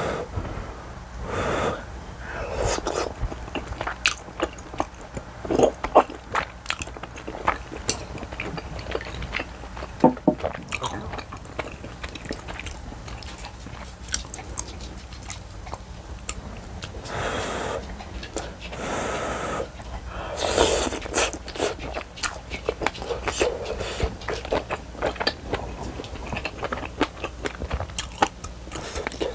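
Close-up mouth sounds of eating spicy tteokbokki, chewy rice cakes with melted cheese and glass noodles: wet chewing and many quick smacking clicks, with a few longer, louder noisy stretches along the way.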